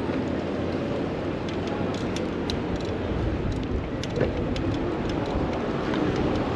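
City street traffic noise heard from a moving bicycle: a steady rumble with scattered light clicks and ticks.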